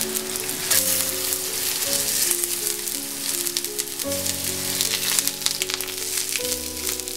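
Zucchini slices sizzling and crackling in hot olive oil in a stainless steel skillet as more slices are laid in. Soft background music with held notes plays alongside.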